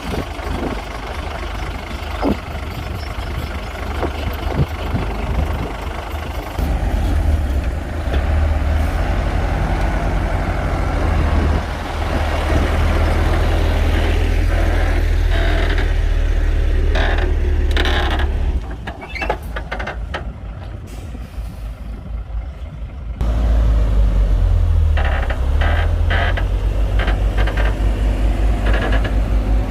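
Komatsu D58P bulldozer's diesel engine working under load, with repeated clanks. Past the middle the engine drops to a lower, quieter note for a few seconds, then comes back up loud.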